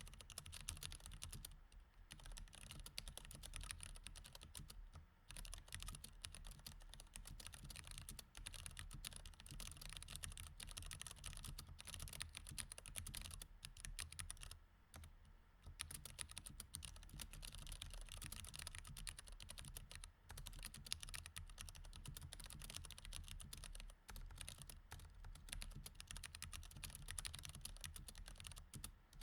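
Mechanical keyboard with Cherry MX Red switches, typed on quickly and continuously as a fast patter of key clicks, with a few short pauses.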